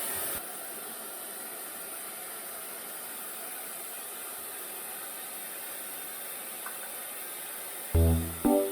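Hair dryer blowing a steady hiss. Piano-like music notes come in near the end.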